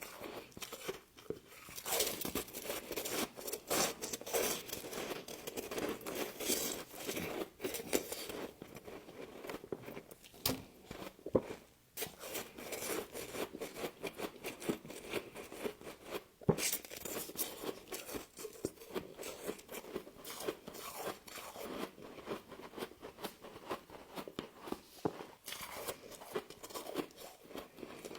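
Close-up crunching and chewing of frost: repeated bites crackling as the icy frost is broken up in the mouth, with a short lull about halfway through.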